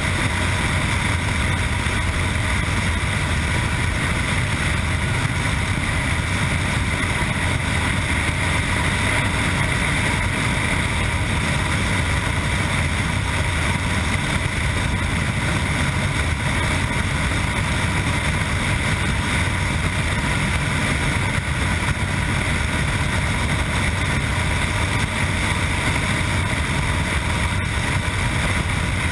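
Yamaha MT-09's inline three-cylinder engine running through an Akrapovic exhaust, heard on board with wind rushing past. The sound stays steady throughout, with no clear revving up or down.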